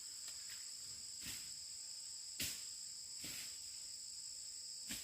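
Insects calling in a steady, high-pitched drone of two unbroken tones, with a few faint clicks scattered through.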